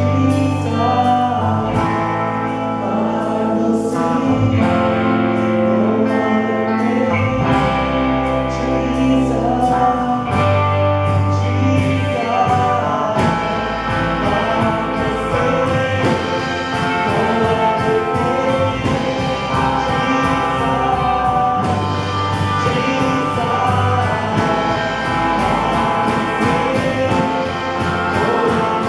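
Christian worship song performed live: singing over an instrumental band accompaniment with sustained chords and a bass line.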